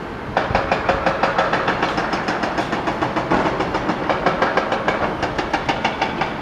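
Approaching EuroCity train heard along the rails: a fast, even clicking, about six a second, with a ringing tone. It starts abruptly about half a second in.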